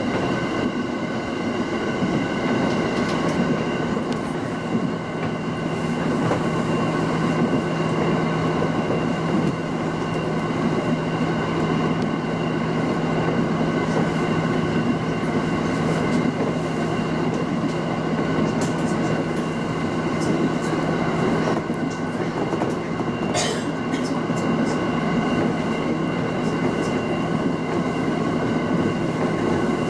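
Local passenger train running at speed between stations: steady rolling noise with a steady hum and scattered clicks of the wheels over the rails.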